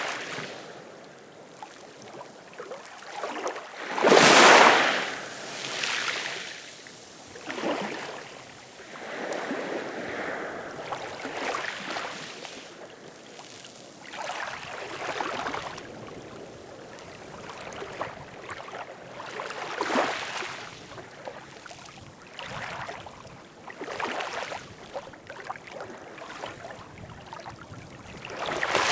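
Ocean waves washing in, a surge of hissing water every few seconds, the biggest about four seconds in.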